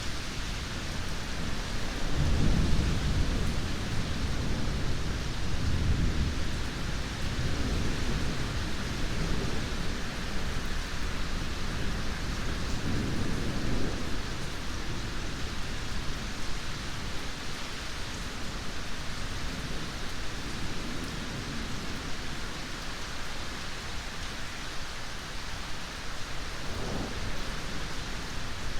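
Steady heavy rain with rolling thunder: a deep rumble swells a couple of seconds in and rolls on for several seconds, another rumble comes around halfway, and a fainter one near the end.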